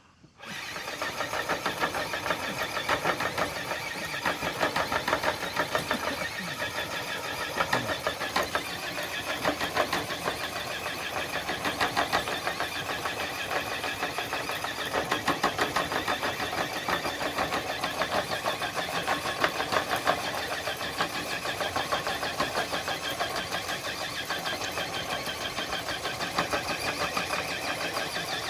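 Axial Base Camp RC crawler's electric motor and gearbox whining with a fast, steady chatter as it strains to drag a weighted sled. It starts about half a second in.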